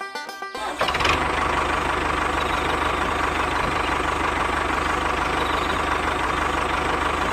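Banjo music stops, then about a second in an engine starts running at a steady idle with an even low rhythmic beat.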